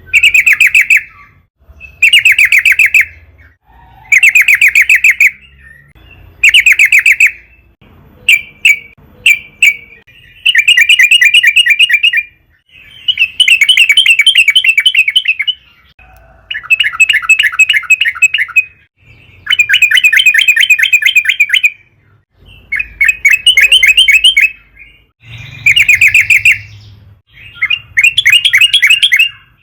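Yellow-vented bulbul (trucukan) singing loudly in close-up: about a dozen quick, bubbling, warbled phrases, each one to two seconds long, coming one after another with short pauses between them.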